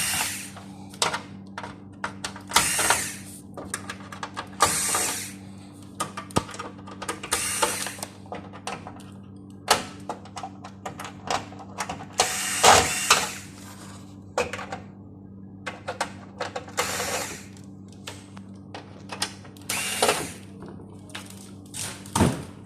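Tools and parts being handled during LED TV repair work: scattered clicks and short scraping bursts, over a steady low electrical hum.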